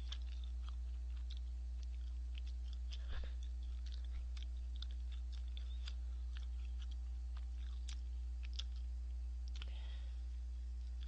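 Close-miked chewing: a scatter of small wet mouth clicks and smacks, with one light knock about three seconds in, over a steady low electrical hum.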